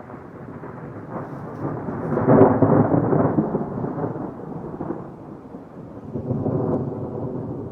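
Thunder rumbling: a deep roll that swells to its loudest about two seconds in, fades, then rolls again near the end.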